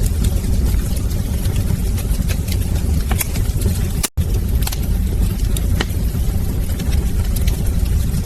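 Wood fire burning in a fireplace: a steady low roar of the flames with scattered sharp crackles and pops. The sound cuts out for a split second about four seconds in.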